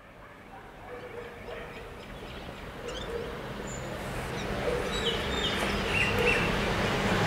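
A train approaching along the line, its rumble growing steadily louder, with a few short bird chirps over it in the middle.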